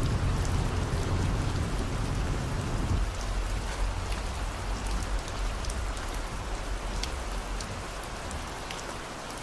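Steady rain falling on a car, with scattered sharp drop ticks, over a low road rumble that drops away about three seconds in.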